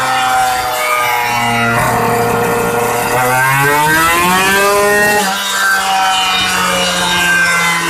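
Engine running through an aftermarket Creampie exhaust while it is being tuned: held at a steady speed, then revved up in a smooth rising pull over about two seconds and dropped back sharply, settling at a steady speed again.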